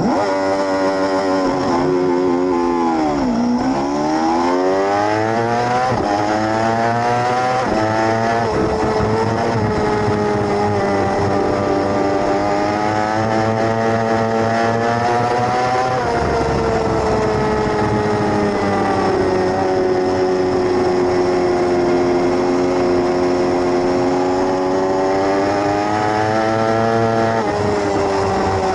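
600cc racing sportbike engine at race pace. It drops in pitch over the first few seconds as it slows, then revs up hard through several gear changes, each marked by a sudden drop in pitch, with long pulls at high revs between.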